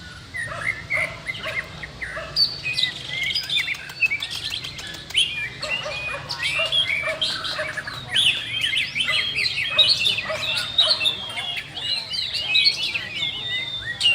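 White-rumped shamas singing, several at once: a dense, unbroken run of varied whistled phrases and fast, sweeping notes overlapping one another.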